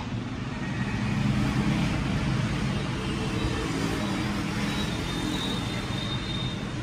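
Steady road traffic noise with engine hum.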